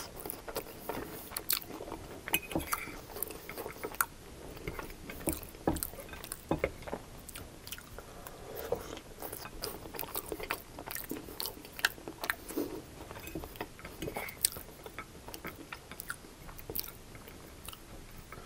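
Close-miked chewing and mouth sounds of a person eating chili-topped fries with hot dog pieces, with many short, sharp clicks scattered throughout. A metal fork picks at the food on a ceramic plate near the end.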